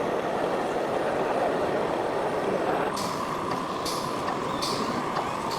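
Radio-controlled truck sounds over a steady rushing noise. About halfway through, a steady high tone comes in and holds, with four short sharp hisses, like air-brake releases, spaced over the second half.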